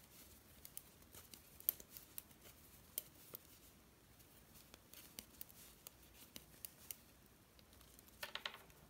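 Faint, irregular light clicks of two knitting needles as stitches are worked in 2×2 rib.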